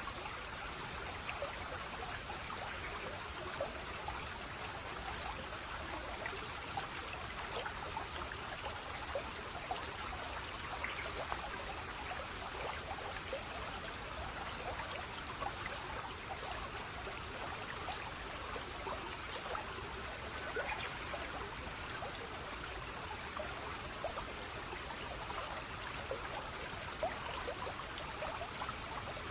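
Water flowing and trickling steadily, as in a small stream, with small splashes scattered through it.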